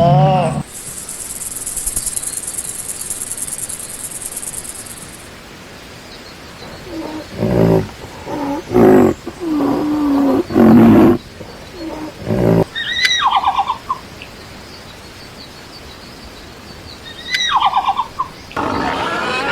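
A series of animal calls: a high buzz for the first few seconds, then several loud, deep pitched calls in quick succession, then two short calls that drop in pitch, a few seconds apart.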